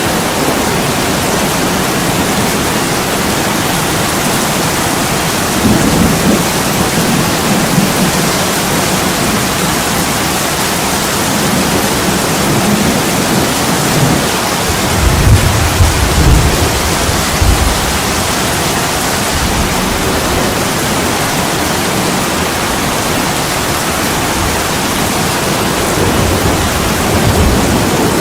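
Heavy rain falling steadily on an attic window, an even hiss, with low rolls of distant thunder, a lighter one about six seconds in and a stronger one about halfway through.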